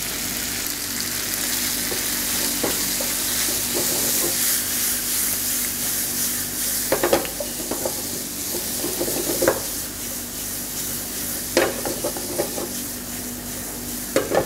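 Chicken, capsicum and onion in sauce sizzling steadily in a frying pan while being stir-fried, with a spatula knocking and scraping against the pan a few times, the clearest about halfway through and near the end.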